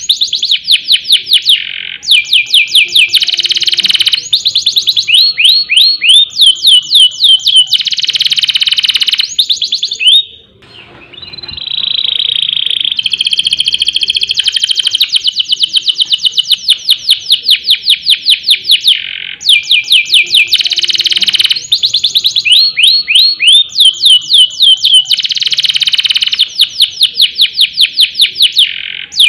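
Domestic canary singing loudly in long rolling trills and rapid high-pitched note series, with a brief break about ten seconds in.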